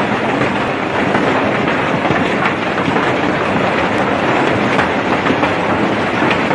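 Heavy rain and large hailstones pelting down, a loud, steady, dense clatter of many small impacts.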